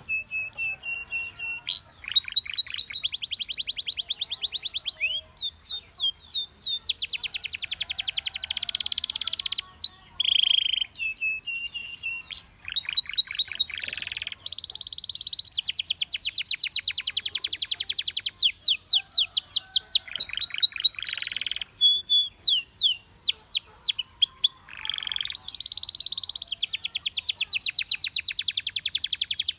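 Belgian canary singing a long, unbroken song of rapid trills and fast repeated notes. The phrases change every second or two, with a few short held notes between them.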